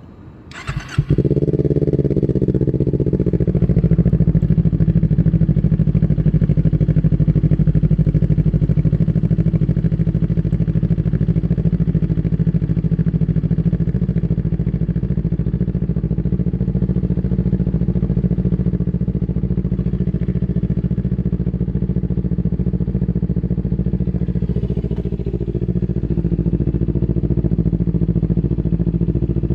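Kawasaki Ninja 250 motorcycle engine cold-started: a brief turn of the electric starter, the engine catches about a second in, then settles into a steady idle.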